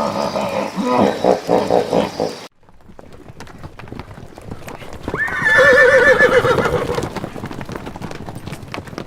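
A horse whinnies once for about two seconds, a wavering, shaking call, over the clatter of hooves. In the first couple of seconds a different animal gives rapid pulsed calls, which cut off suddenly.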